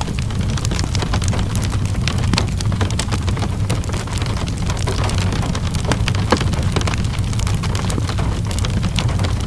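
Steady rain mixed with a crackling wood fire. There is a constant hiss over a low rumble, with frequent sharp pops and crackles; one louder pop comes about six seconds in.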